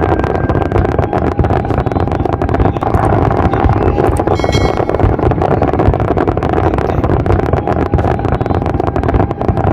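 Aerial fireworks display going off: a dense, continuous run of cracks and pops over a steady rush of noise.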